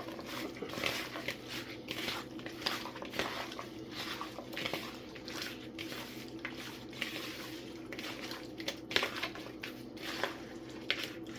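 Seasoned raw chicken back being mixed in a dish: irregular clinks and scrapes against the dish and soft squishes of the meat, over a faint steady hum.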